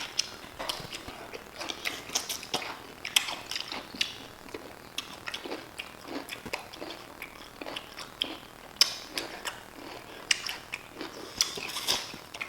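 Close-up crunching and chewing of whole spicy pickles being eaten as fast as possible, a stream of sharp, irregular crunches.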